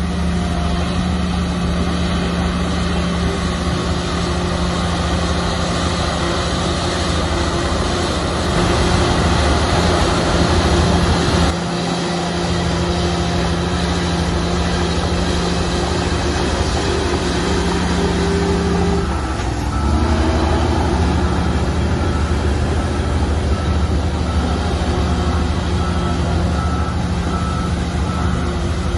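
Heavy diesel earthmoving machinery running steadily, louder for a couple of seconds about nine seconds in, with the engine note shifting around nineteen seconds. Near the end a reversing alarm beeps at an even pace.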